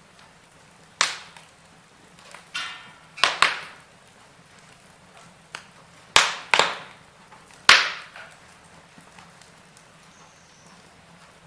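Wood fire in a fireplace crackling, with about seven sharp, loud pops at irregular intervals, each fading quickly, and a brief hiss among them a few seconds in.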